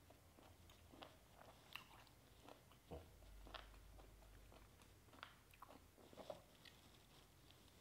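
Faint close-up chewing: soft, irregular clicks and light crunches as a mouthful of banana flower and raw beef salad is chewed with the mouth closed.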